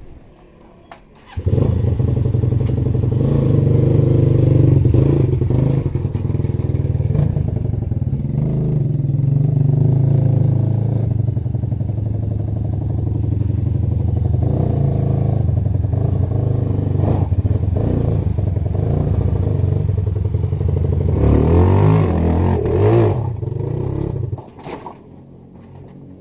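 Stock Honda Megapro motorcycle's single-cylinder engine coming in loud about a second in and running hard at high throttle. It turns choppy and uneven near the end, then drops off suddenly.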